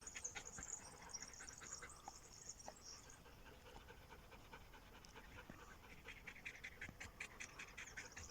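Dog panting quickly and faintly, with quick, even breaths that grow clearer in the second half.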